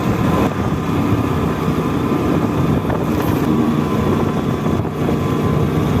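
Motorcycle engine running steadily while riding at cruising speed on the highway.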